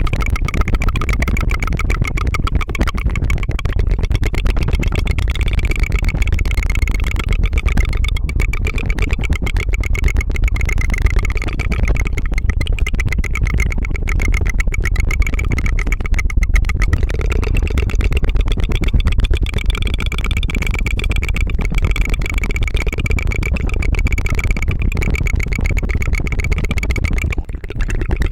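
Rapid tongue fluttering close to the microphone: a continuous fast trill that runs like a small engine, with a brief break near the end.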